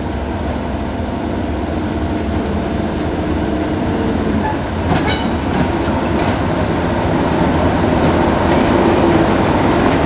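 Class 37 diesel-electric locomotive running, its English Electric V12 engine giving a steady drone that grows slightly louder, with a sharp click about halfway through.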